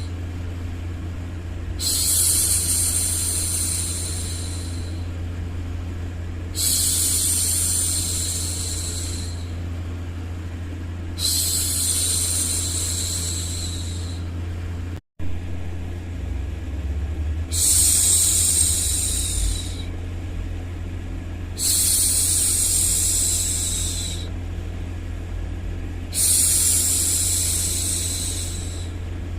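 A woman's voice shushing "shhh" over and over to soothe a baby: six hushes in all, each two to three seconds long and starting every four to five seconds, over a steady low hum. The sound cuts out for an instant about halfway through.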